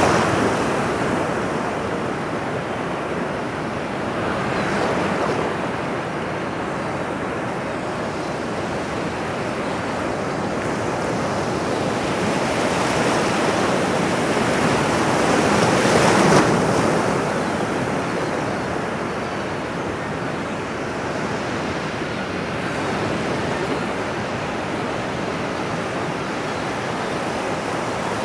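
Ocean surf: a continuous wash of breaking waves that swells louder a few times, most strongly about sixteen seconds in.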